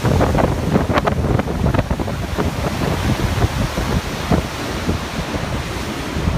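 Steady rush of the Gullfoss waterfall, with wind buffeting the microphone in gusts.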